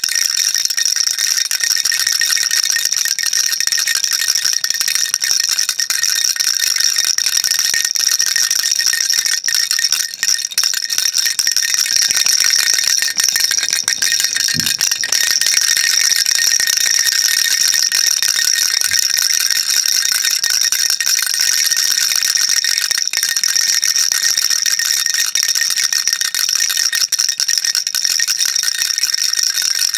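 Baby rattle shaken without pause: a dense, steady, high-pitched rattle, with a brief dip about ten seconds in.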